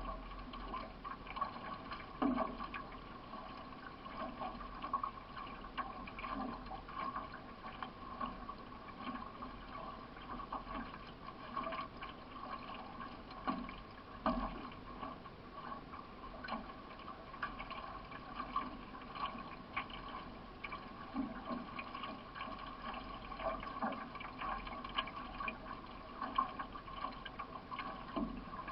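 Solo racing canoe being paddled: water gurgling and splashing against the hull and paddle, with repeated short splashes from the paddle strokes.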